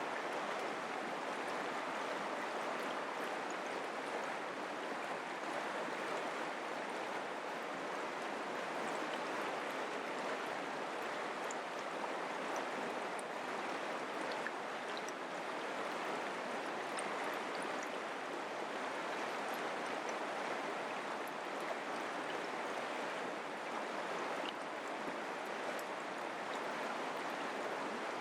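Mountain creek flowing: a steady, even rush of running water with small specks of splashing.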